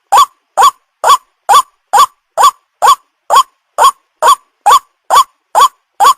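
White-breasted waterhen call played as a bird-lure recording: one short note repeated evenly about twice a second, each rising and then dipping in pitch, with brief silences between.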